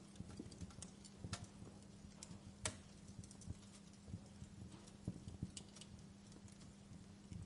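Wood fire burning in a fireplace, crackling with irregular sharp pops and snaps, the loudest pop about a third of the way in. A faint steady low hum runs underneath.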